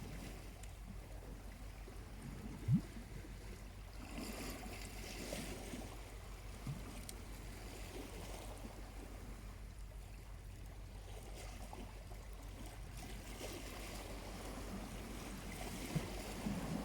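Small waves lapping and washing on the shore, swelling twice, with two brief low thumps, the first the loudest sound.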